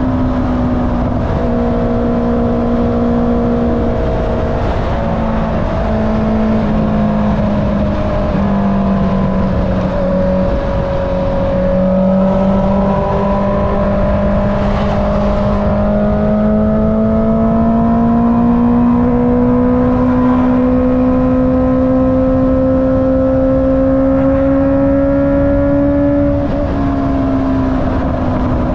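Honda CB650R's inline-four engine with an Akrapovic exhaust, heard from the rider's seat while cruising. The note holds steady, dips slightly about a third of the way in, then climbs slowly in pitch and drops back near the end as the throttle eases.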